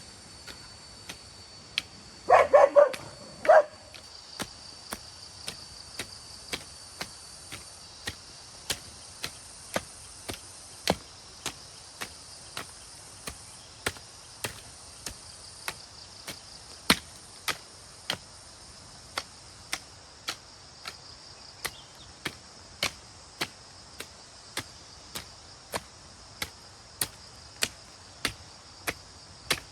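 Steady rhythmic chopping, a sharp knock roughly every two-thirds of a second, over a constant high drone of insects. About two seconds in, an animal gives a loud call of a few short cries.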